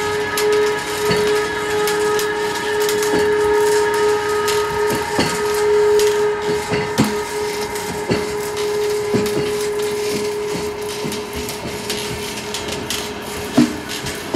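SBB Re 460 electric locomotive with double-deck coaches rolling slowly over points on a curve: irregular clicks and knocks as the wheels cross the switch and rail joints, over a steady electric whine from the train.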